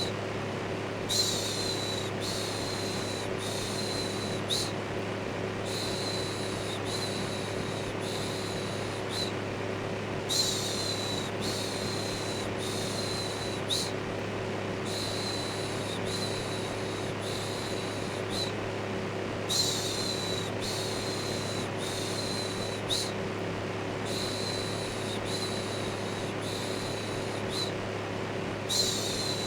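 Electric fan running as a steady whirring hum, with a looped shushing 'shhh' laid over it. The shushes come in runs of about four short hisses, with a brief pause every few seconds.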